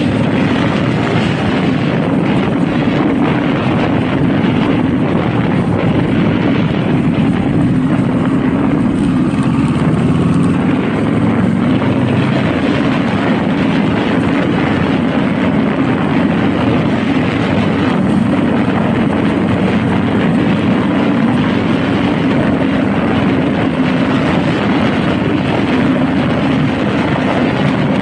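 Honda Rebel motorcycle engine running steadily while being ridden, its low drone under a constant rushing noise.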